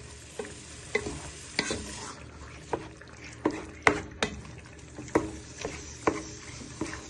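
Wooden spoon stirring chicken, marinade, onions and peppers in a frying pan, knocking and scraping against the pan about twice a second over a low sizzle.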